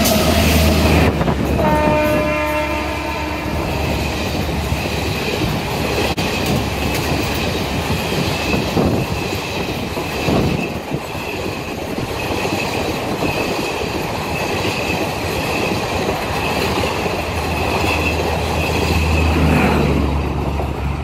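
An electric-hauled express passenger train passes at speed. The locomotive's horn sounds as it goes by, with a brief multi-tone blast about two seconds in. The long string of AC sleeper coaches follows with a steady rumble and wheels clacking over the rail joints.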